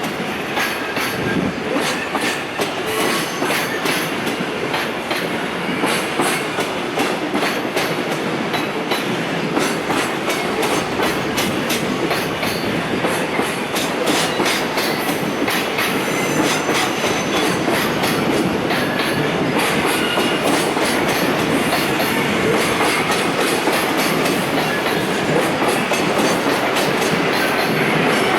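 A container freight train pulling out and rolling past, its wagon wheels clacking over the rail joints in quick, steady succession with faint wheel squeal now and then.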